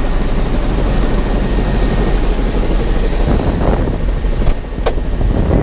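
Helicopter running, a dense steady rumble with a thin high whine over it; the whine fades about four seconds in. A single sharp click near the end.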